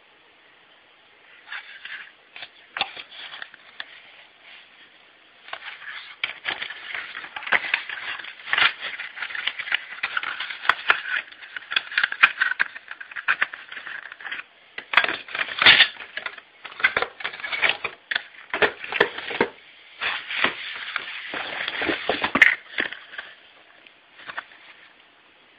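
Irregular handling noise: crackling, rattling and scraping of objects being handled, in uneven spurts with short pauses, starting a second or two in and dying away near the end. No alarm tone or siren is sounding.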